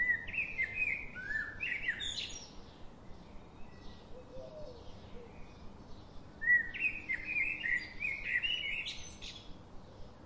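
A songbird singing two short warbling, chirping phrases, one at the start and one about six seconds in, each lasting a couple of seconds, over a faint steady background hiss.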